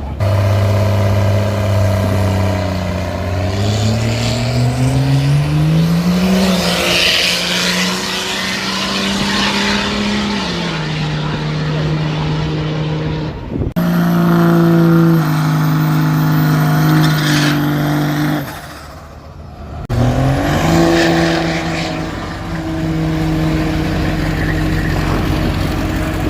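Diesel pickup truck engines running loudly. One engine rises in pitch over a few seconds, holds, then drops back. The sound cuts abruptly twice to other trucks running steadily, one with a thin high whine over it.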